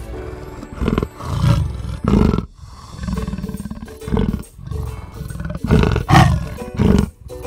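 A big cat roaring and growling in a series of about seven rough calls, the loudest pair about six seconds in, over soft background music.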